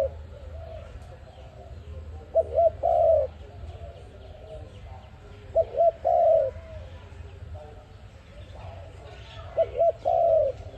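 Dove cooing: a repeated phrase of two short notes followed by a longer note, given three times at about three-and-a-half-second intervals, with fainter calls in between.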